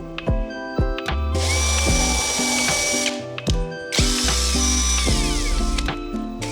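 Power tool whirring in two runs of about a second and a half to two seconds each, with a steady high whine, over background music with a steady beat.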